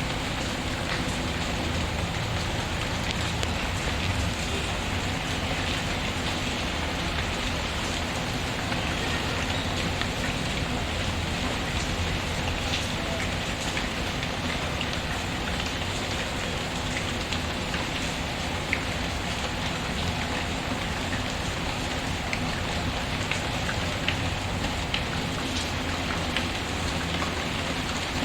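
Steady rain pattering, mixed with the occasional sharp crackle of a wood fire in a fireplace.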